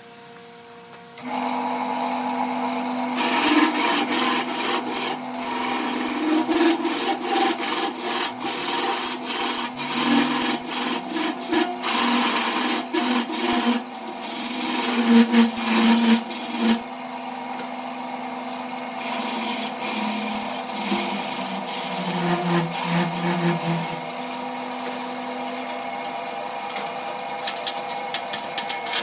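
A power tool's motor starts about a second in and runs steadily, with rasping, scraping strokes of an abrasive working wood that come and go over it and are heaviest in the first half.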